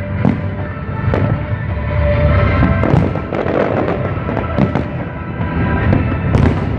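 Aerial fireworks shells bursting one after another, with sharp bangs, crackle and low rumbling booms. The loudest bangs come about three seconds in and again near the end.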